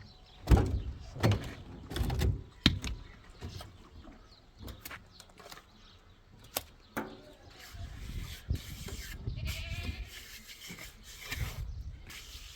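Livestock bleating, with one pitched call a little before the end, among several sharp knocks and thumps in the first half.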